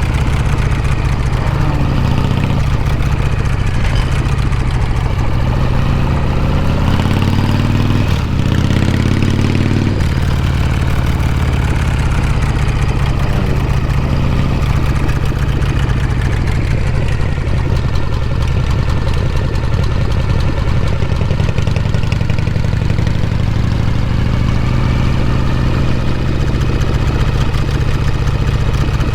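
1979 Harley-Davidson FXEF shovelhead V-twin running under way. Its exhaust note climbs in pitch twice, with breaks between the climbs, as it pulls through the gears, then settles into steady running.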